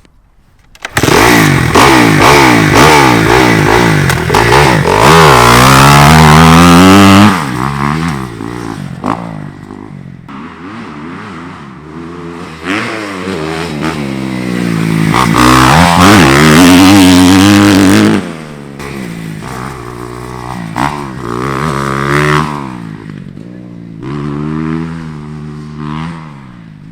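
A motorcycle engine starting up abruptly about a second in and revving hard, its pitch climbing and falling in long sweeps. After about 18 s it drops to a lower running note with short throttle blips.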